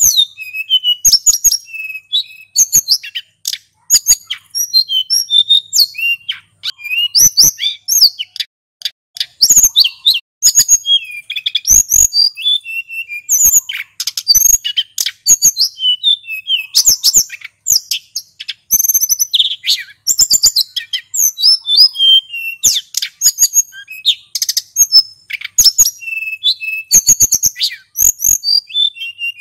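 Male sulingan gunung singing continuously: a rapid, varied run of high-pitched chirps, whistles and trills with only brief pauses.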